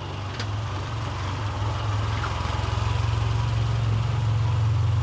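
Car engine idling, a steady low pulsing hum that grows gradually louder.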